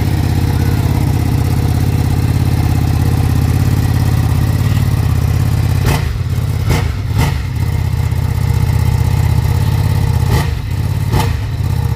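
Ducati Panigale V2's 955 cc Superquadro V-twin engine idling steadily after its first start on delivery, with a few brief throttle blips about six to seven seconds in and again around ten to eleven seconds in.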